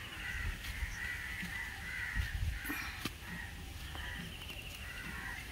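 Birds calling repeatedly, short harsh calls again and again, with a fast rattling trill from another bird about four seconds in.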